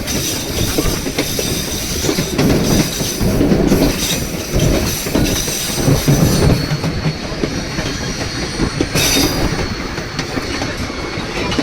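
White Pass & Yukon Route narrow-gauge passenger train running on the rails, with a steady rumble and clatter of the wheels and a thin high wheel squeal.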